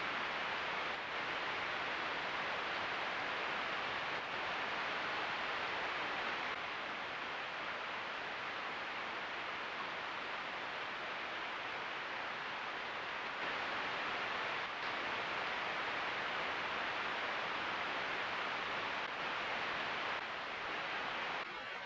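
Steady, even hiss with no distinct events, stepping slightly up or down in level a few times.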